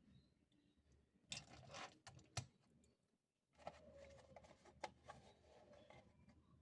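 Quiet handling of diecast toy-truck packaging: two short bursts of rustling, about a second in and again past the middle, with a few sharp clicks.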